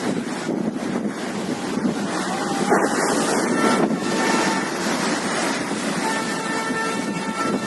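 Sea waves surging against the seafront at high tide, a steady roar of water with wind buffeting the microphone. About six seconds in, a steady pitched tone with overtones joins the roar.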